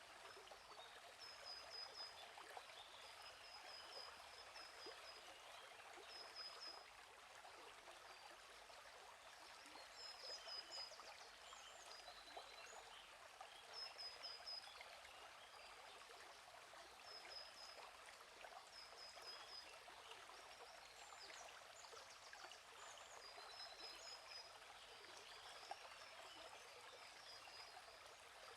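Faint, steady babble of a gently flowing stream, with small birds calling in short, high chirping trills every few seconds.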